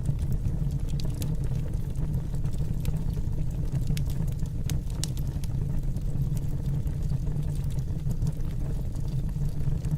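Fire burning in a fireplace: a steady low rumble of the flames with scattered, irregular sharp crackles and pops.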